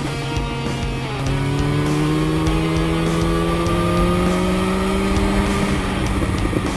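Yamaha FZ1's inline-four engine pulling the bike along. The pitch drops at a gear change about a second in, rises steadily under acceleration, and drops again at another shift near the end.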